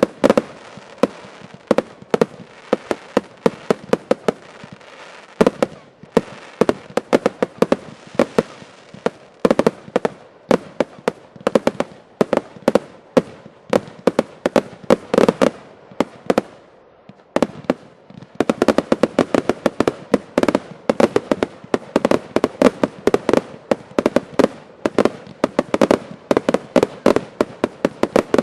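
Fireworks finale: a dense, continuous barrage of shell and cake reports, many bangs a second. It eases off briefly about two-thirds of the way through, then picks up again even faster.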